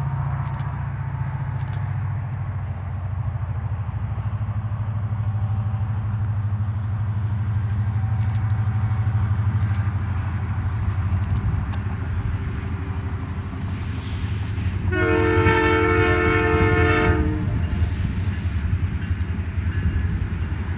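Diesel locomotive running with a steady low engine drone. About three-quarters of the way through, its multi-tone horn sounds one blast of about two seconds.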